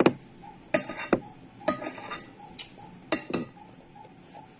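Cutlery clinking against a plate while eating fried rice: about six short, sharp clinks at irregular intervals.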